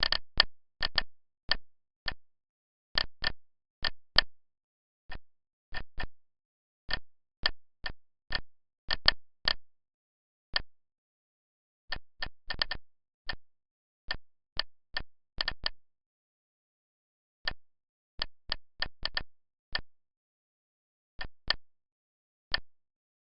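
Irregular clicking of keys being pressed one at a time, sometimes several in quick succession and sometimes with pauses of a second or two, with dead silence between the clicks.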